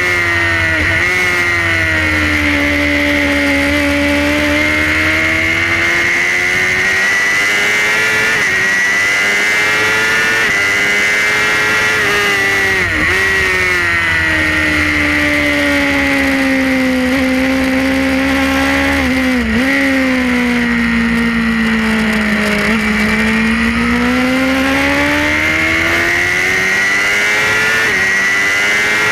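Onboard sound of a Suzuki GSX-R racing motorcycle's inline-four engine at racing revs. The engine note repeatedly falls and climbs again, with a few sharp breaks in the note.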